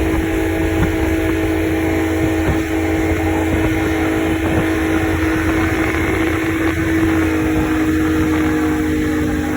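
Motorboat engine towing a banana boat, running steadily at speed with its pitch dropping slightly about seven seconds in, over a rush of wind and water.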